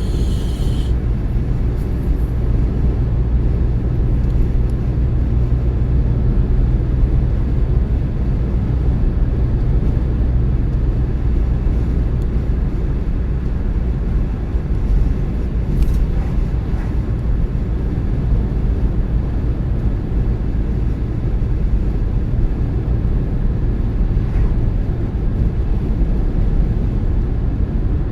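Car driving on the road: a steady low rumble of tyres and engine, with a brief high hiss in the first second.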